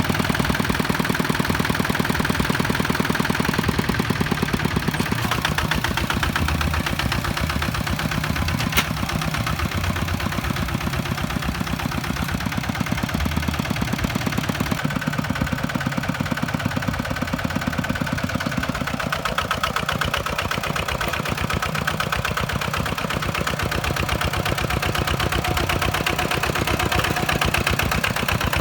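Kubota farm tractor's diesel engine running steadily at an even firing rhythm, with a single sharp click about nine seconds in.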